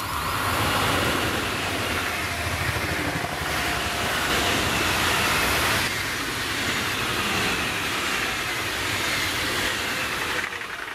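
Double-deck electric multiple unit passing close at speed: steady wheel-on-rail rolling noise. It eases off shortly before the end as the train moves away.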